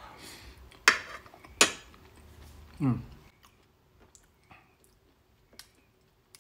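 Close-miked eating: a mouthful of green beans being chewed, with two loud sharp clicks about a second in. Near the middle comes a short vocal sound that falls in pitch, followed by faint clicks from the plate and fingers.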